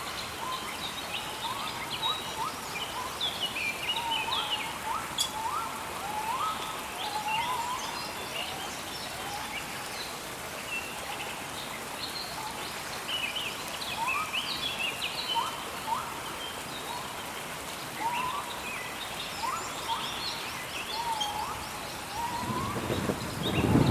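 Steady rain hiss with birds calling over it: repeated short rising whistled notes and higher chirps. Near the end a low rumble of thunder swells up.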